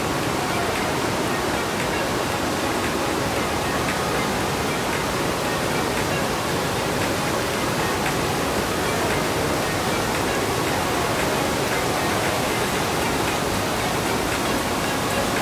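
Steady loud rush of the Partnach river's water pouring through the narrow rock gorge.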